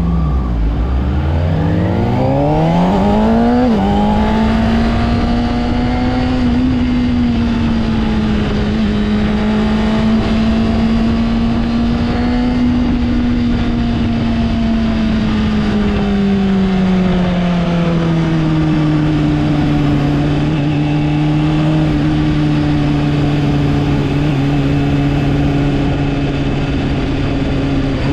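2024 Honda CBR600RR's inline-four engine under throttle: its pitch climbs steeply, drops sharply about four seconds in as at a gear change, then holds a steady note. Past the middle the pitch falls away and settles at a lower steady note.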